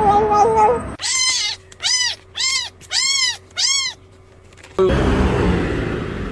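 Domestic cat meowing five times in quick succession, each meow rising then falling in pitch. A held steady tone ends just before the meows start, and a loud, noisy sound cuts in about five seconds in.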